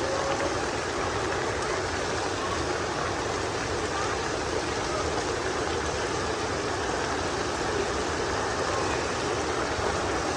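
Heavy rain coming down steadily, a continuous even rush with no breaks.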